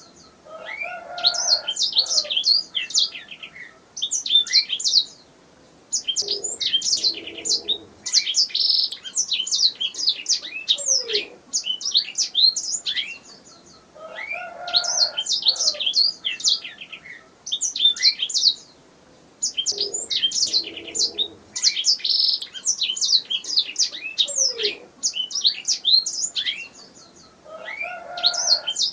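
Canary singing: fast runs of high chirps and trills in phrases a few seconds long with short pauses between, the same song recurring about every fourteen seconds.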